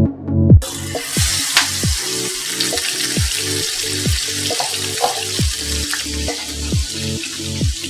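Salt-and-turmeric-coated prawns dropped into hot mustard oil in a frying pan, sizzling steadily from about half a second in, with a few sharp pops of spitting oil.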